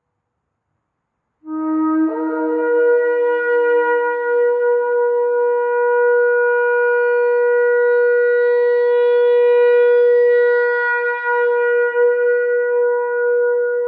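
Shofar (ram's horn) blown in one long blast that starts about a second and a half in, opens on a low note, breaks up to a higher note and is held steadily.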